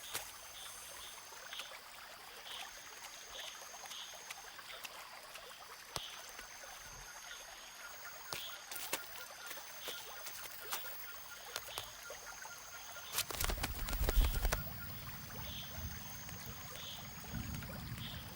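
Rainforest ambience: a high, even call repeats every couple of seconds, with short chirps at a steady beat and scattered small clicks. About thirteen seconds in, a low rumble rises for a couple of seconds, then fades.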